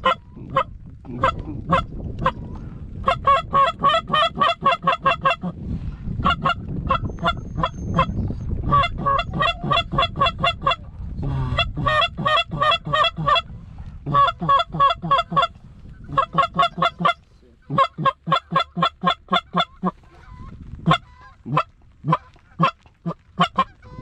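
Hunters' hand-blown waterfowl calls calling to circling birds: runs of short, sharp notes, several a second, broken by brief pauses, over a low rumble of wind and rain on the microphone.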